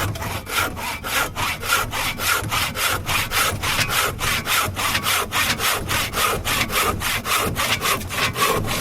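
Hand saw cutting through wood in fast, even back-and-forth strokes, about five a second.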